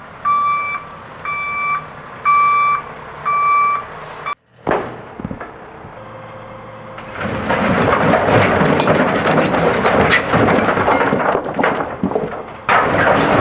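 Excavator backup alarm beeping about twice a second over the running engine. After a break, the machine digs into stony, gravel-laden soil: a loud, continuous scrape and clatter of rock against the bucket over the engine.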